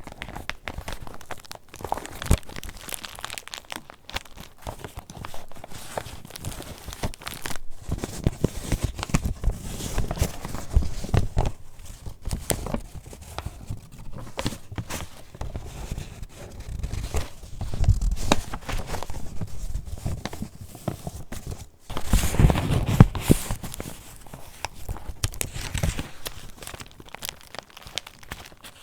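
Paper pages of a handmade junk journal being handled and turned, an irregular rustling and crinkling dotted with crisp clicks, with a louder flurry about three quarters of the way through.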